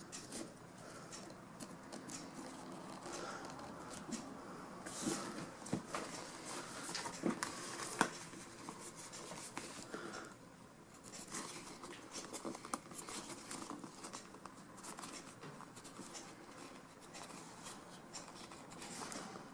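Upholstery material being handled and marked by hand: quiet, irregular rustling and scratching with small clicks and taps.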